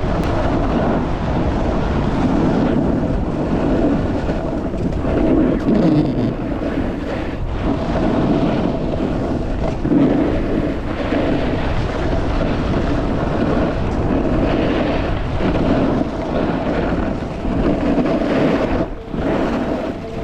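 A snowboard sliding and carving over snow, with wind rushing over the microphone. The noise swells and eases every couple of seconds.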